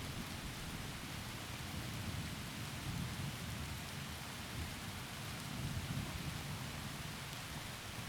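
Heavy rain falling steadily through trees, with low rolling thunder rumbling underneath that swells and fades a couple of times.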